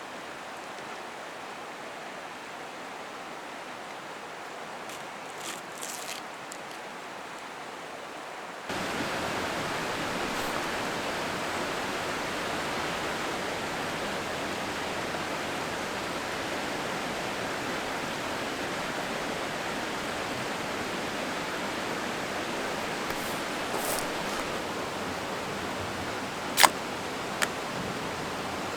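Mountain stream flowing steadily, the water sound turning suddenly louder about a third of the way in. Two sharp clicks near the end.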